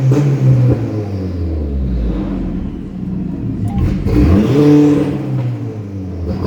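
Turbocharged Honda K20 four-cylinder in a Civic Si revving: a rapid stutter on the launch-control rev limiter at first, then the revs fall away. About four seconds in it is revved up sharply, held briefly, and let fall again.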